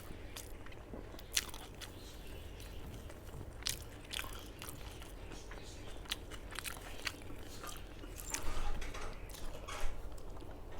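A person chewing and biting food close to the microphone, with crunchy snaps heard as irregular sharp clicks, busier near the end.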